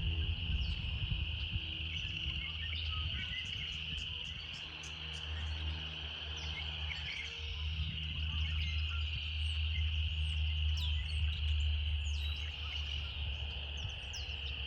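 Cicadas singing in a continuous steady buzz, with many short bird chirps over it. A steady low hum runs underneath.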